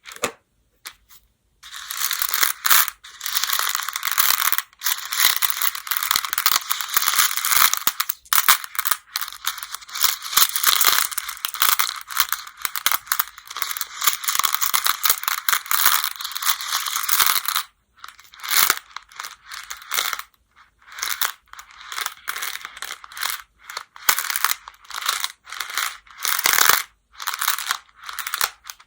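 Go (baduk) stones rattling and clacking against each other, stirred by hand in a dense, continuous clatter for about sixteen seconds, then in shorter separate bursts and clicks.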